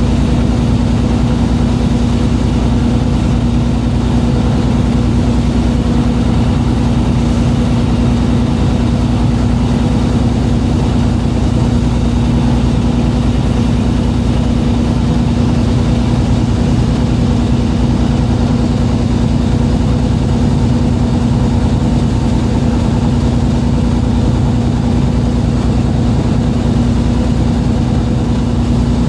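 Fishing boat's engine running at a steady, unchanging speed, a constant low drone with a hum.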